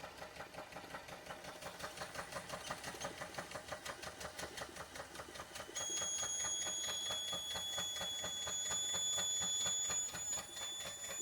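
Doll 360 model ship's steam engine running, its beats ticking about four to five a second and slowly quickening. About halfway through, a steady high-pitched steam whistle starts and carries on as the boiler pressure climbs too high.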